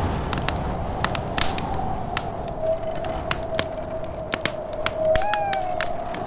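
Wood fire crackling with many irregular sharp pops, over the steady, wavering whistle of snowstorm wind.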